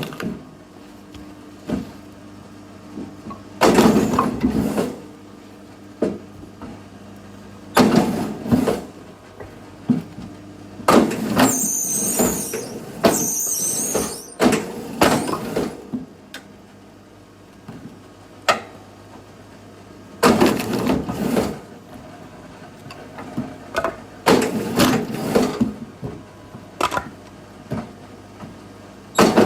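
Axe splitting firewood: about ten sharp strikes and cracks of wood, spaced a few seconds apart, some in quick pairs. A high creak of splitting wood comes about twelve seconds in.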